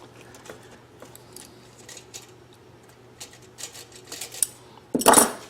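Faint clicks and light handling noise of hands fitting a Corbin spring clamp onto a rubber fuel hose, with one louder clack about five seconds in.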